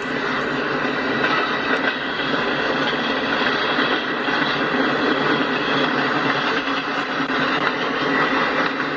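Freight train rolling past: a steady, dense rumble of wheels on rail.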